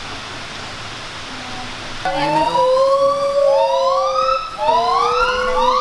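Gibbons calling: after a steady hiss, a run of rising whooping hoots starts about two seconds in and comes faster and higher toward the end.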